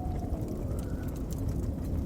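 Wood fire crackling in a fireplace, scattered sharp pops and ticks, over the steady low rumble of blizzard wind. A faint wind whistle rises and falls about halfway through.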